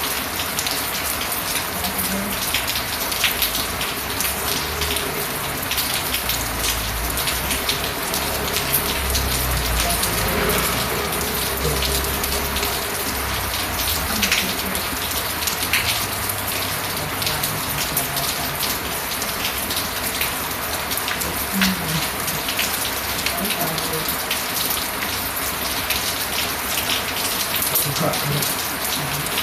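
Steady rain, a dense hiss with many separate drops ticking on a surface. A low rumble swells in the background between about six and thirteen seconds in.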